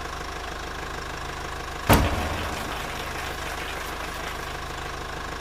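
Car engine idling with a steady low hum, and one sharp thump about two seconds in.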